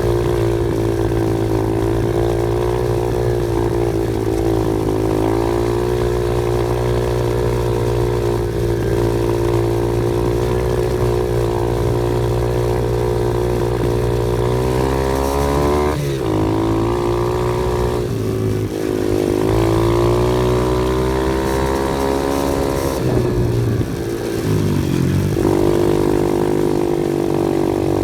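Off-road vehicle engine running steadily under load, its pitch dipping and climbing back several times in the second half as the throttle changes.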